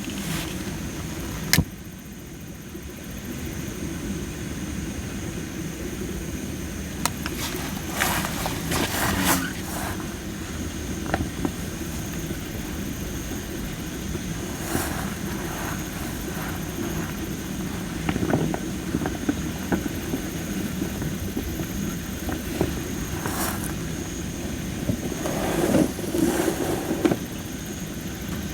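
Campfire of well-dried Japanese spindle-tree (masaki) firewood crackling, with sharp pops every few seconds over a steady low rumble of the burning fire.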